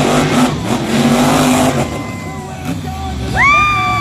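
Monster truck engines running hard at full throttle, falling away about two seconds in. Near the end a loud, steady horn blast starts.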